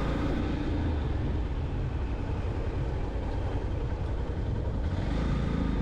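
Riding noise from a Yamaha FZ-X motorcycle on the move: a steady low rumble of wind and engine.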